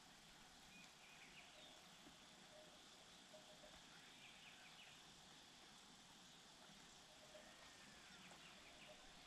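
Near silence: faint steady outdoor background hiss, with a few faint, short distant bird chirps.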